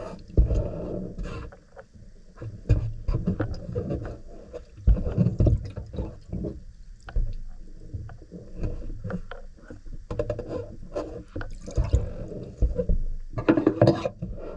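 Irregular handling noise close to the microphone: scattered clicks, knocks and scraping, with a denser cluster near the end.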